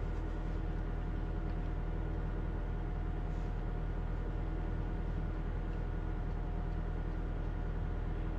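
Car engine running, a steady low hum with a faint constant whine, heard inside the cabin.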